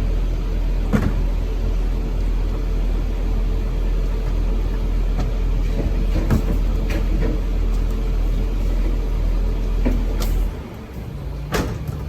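Garbage truck engine running with a steady low rumble and a few sharp clanks; the rumble drops away sharply about ten and a half seconds in.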